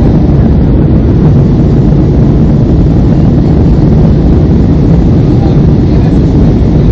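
Steady low roar of an airliner's jet engines and rushing air, heard from inside the passenger cabin.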